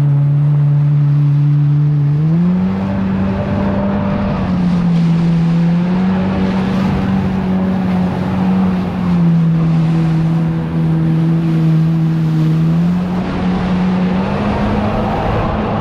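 Jet ski engine running under way, its pitch rising about two seconds in, easing off around nine seconds and picking up again near the end as the throttle changes.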